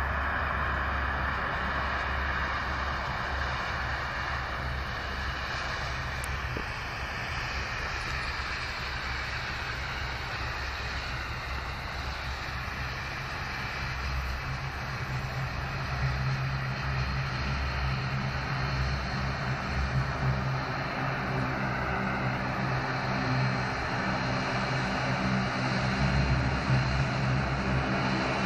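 Aircraft engines running steadily, with a low engine hum that grows stronger over the last few seconds.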